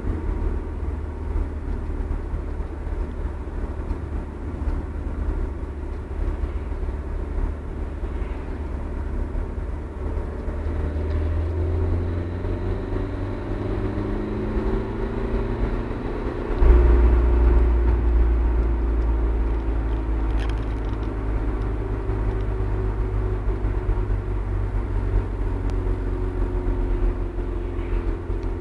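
Opel Meriva on the move with a steady low rumble and droning tones that slowly rise and fall in pitch: the strange sound the car makes when engine braking. The rumble steps up suddenly about two-thirds of the way through.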